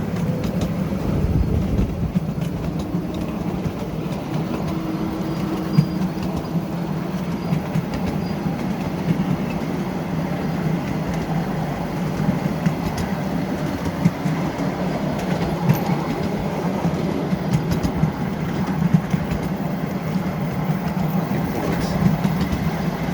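Miniature railway train running along its track: a steady rumble with scattered clicks from the wheels on the rails.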